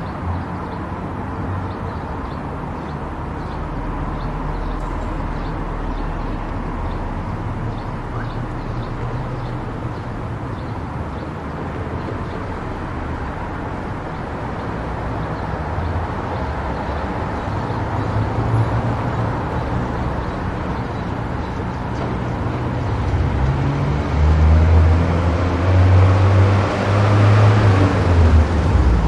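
Car driving on a highway: steady tyre, wind and engine noise. It gets louder with a heavy low rumble in the last few seconds.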